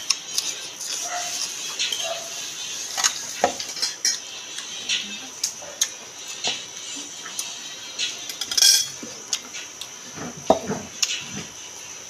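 Close-miked eating sounds: crisp crunching and chewing of raw vegetables, with many sharp clicks and light clinks of a bowl and plate.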